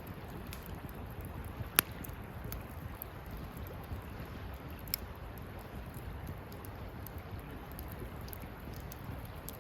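Wood campfire burning with scattered crackles and pops, one sharp pop about two seconds in, over a steady low rumble.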